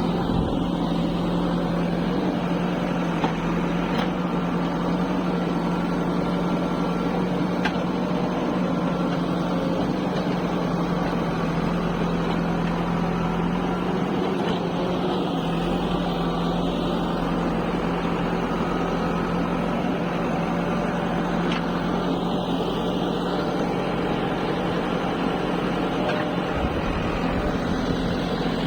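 Diesel engine of a tractor or backhoe loader running at a steady speed, with an even drone that does not change, and a few faint clicks over it.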